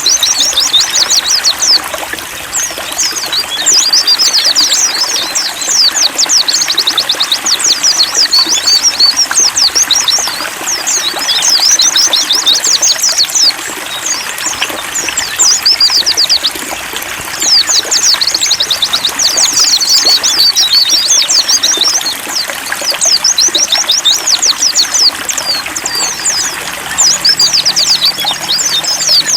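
White-eyes (pleci) singing in long bouts of very fast, high twittering chirps, over a steady sound of trickling water.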